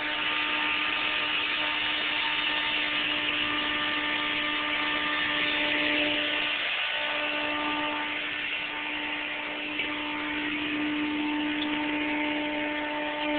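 A small motorized machine running steadily, a constant hum over a rushing noise, briefly dipping about seven seconds in.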